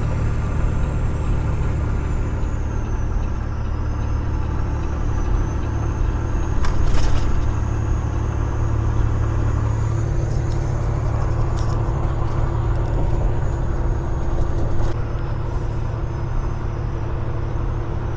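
Peterbilt 389 glider semi truck running steadily down the road: a low, even engine drone with road noise, and a few brief clicks along the way.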